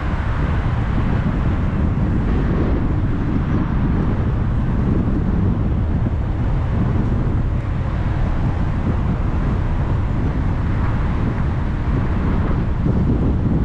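Steady road noise of a car driving on a highway: an even rush of tyre and wind noise, strongest in the low range, with no distinct events.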